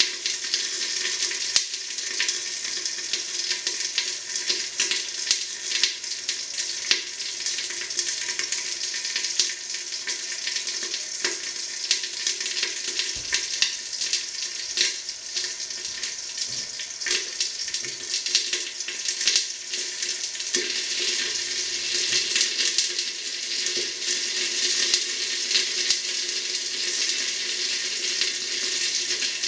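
Chicken leg frying in a pan: a steady sizzle with frequent crackles and spits of fat.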